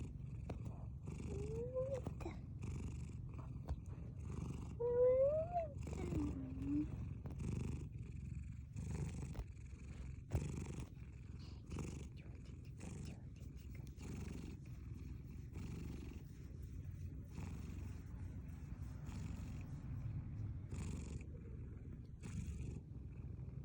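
Domestic cat purring loudly and continuously while kneading bedding, with a soft rustle about once a second from its paws on the futon. A few short gliding voice sounds come in the first seven seconds.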